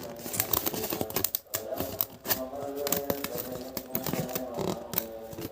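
Irregular clicks and light clatter of excavator puzzle pieces being handled and fitted together, over background music.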